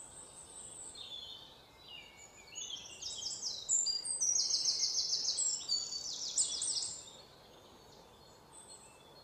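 Birds singing: quick, high chirps and rapid trills, busiest and loudest from about two and a half to seven seconds in, over a faint steady hiss.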